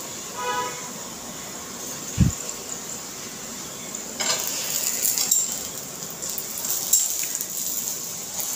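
Paratha frying in oil on a flat tawa griddle, a steady sizzle, with clicks and scrapes of metal tongs on the griddle as the paratha is moved and turned. A short low thump comes about two seconds in.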